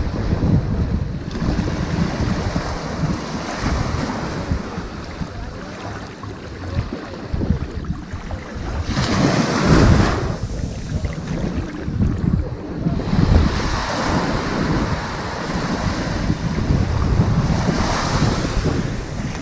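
Ocean waves breaking and washing up a sandy beach in a continuous rush of surf that swells and ebbs. The biggest wave comes about ten seconds in, and another builds near the end.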